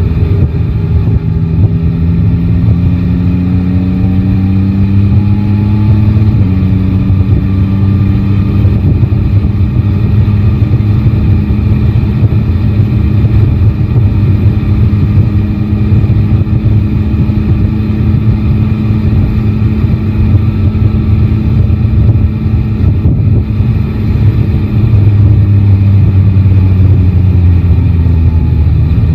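Yamaha Tracer 9 GT's 890 cc inline-three engine under way, rising in revs for the first six seconds, dropping sharply at an upshift, then holding steady revs that ease off near the end. Heavy wind rumble on the microphone runs underneath.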